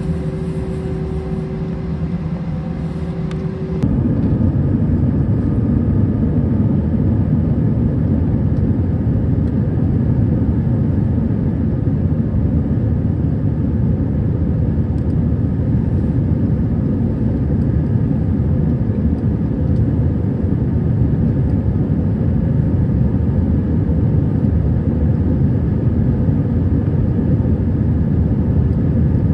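Airliner cabin noise: a steady low rumble of the engines and airflow. For the first four seconds a steady hum of tones sits over it, then it steps abruptly up to a louder, even rumble.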